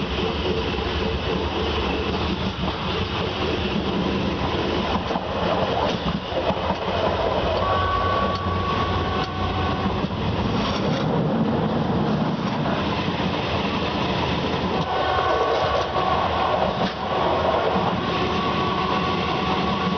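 Train running on rails with a steady rumble and some clickety-clack. Twice, for a few seconds each, steady high-pitched tones ring over it.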